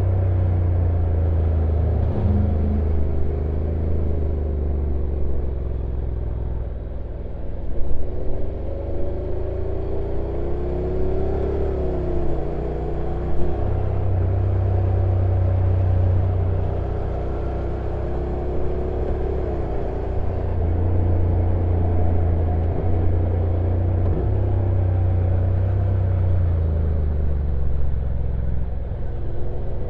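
Honda NC750X DCT's stock 745 cc parallel-twin engine running on a downhill run, its pitch rising and falling several times, over a heavy low rumble. There are a couple of brief knocks about eight and thirteen seconds in.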